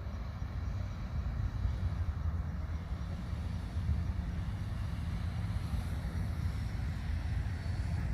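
Steady low rumble of noise with no distinct events, growing a little louder in the first second or two.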